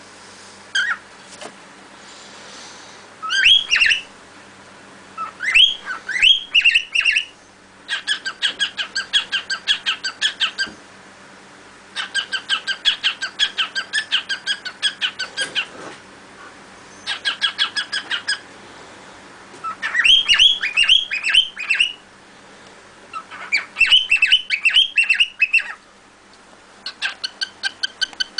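Cockatiel singing: phrases of fast repeated chirps, about six a second, alternating with rising whistled sweeps, each phrase a couple of seconds long with short pauses between.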